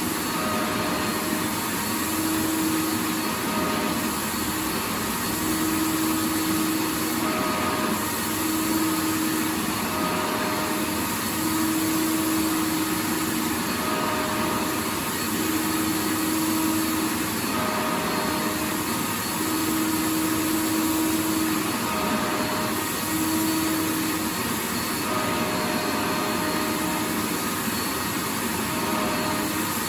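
Vacuum cleaner running continuously: a steady rushing hiss with a motor hum whose pitch comes and goes every second or two.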